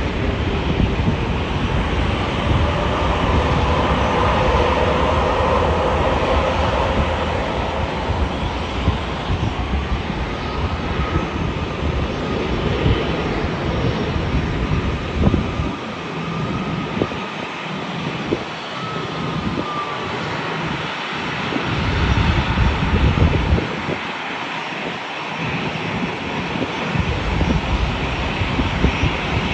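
Jet airliner engines running, a loud steady rush of noise with faint whining tones that drift slowly in pitch.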